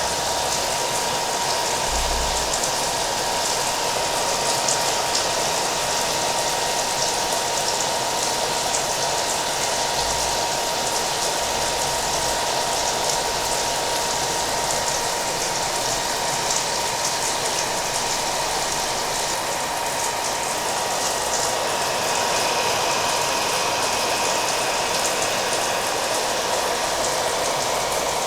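A hair dryer running steadily, its motor giving a constant whine, mixed with the sound of falling rain.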